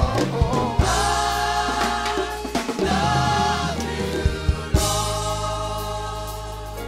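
Live gospel worship music: a choir singing a held, wordless phrase over keyboard, bass and drums, slowly easing off in loudness.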